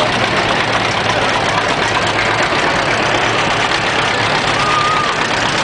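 Tractor engines running at idle, a steady low hum under a dense wash of engine noise.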